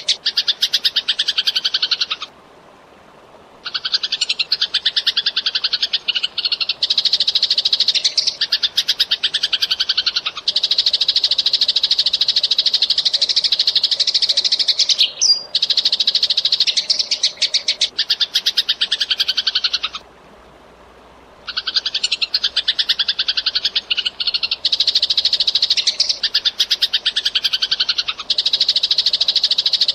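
Eurasian tree sparrow chirping in fast, tightly packed runs of chirps, with two brief pauses, one about two seconds in and one around twenty seconds in.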